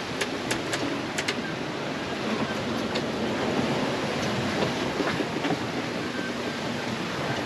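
Steady rush of water along a sailboat's hull as it sails, with a few sharp clicks or creaks within the first second and a half and one more about three seconds in.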